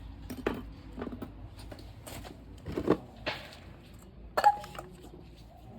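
A series of sharp clicks and light metallic clinks from steel podiatry instruments, the loudest about three and four and a half seconds in, one ringing briefly.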